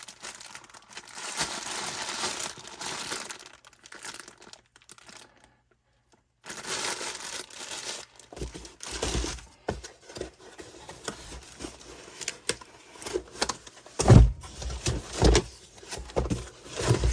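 Plastic packaging crinkling and rustling as parts of a transfer case rebuild kit are handled. In the second half come several sharp knocks and a few heavier thumps of parts set down, the loudest a thump about fourteen seconds in.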